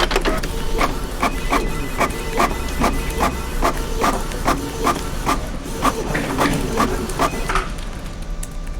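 Office printer running, with regular clicks about three times a second over a faint mechanical whine, stopping shortly before the end.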